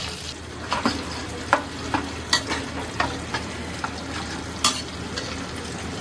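Chopped onion and a coarse chilli-ginger-garlic paste sizzling in hot oil in a kadhai, stirred with a spatula that clicks against the pan several times.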